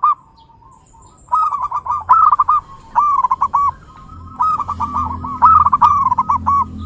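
Zebra dove (perkutut) cooing: two phrases of quick, staccato notes that dip and rise in pitch, the first starting about a second in and the second a little before the end.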